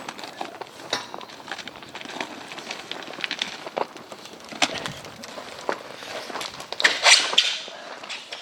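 Footsteps of people walking: irregular steps and scuffs, with a louder scuff about seven seconds in.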